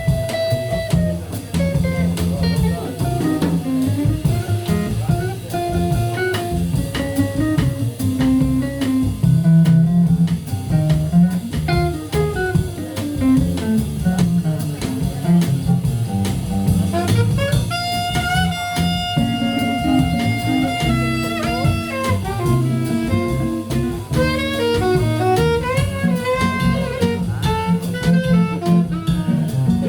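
A small jazz band playing an instrumental passage: electric guitar lines over walking double bass and a drum kit, with saxophone coming in with long held notes past the middle.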